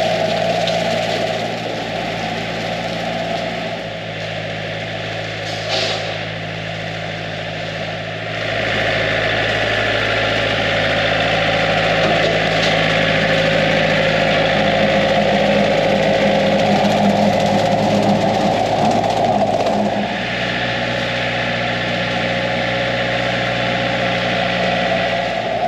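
Engine running steadily, getting louder and working harder about eight seconds in, then easing back about twenty seconds in.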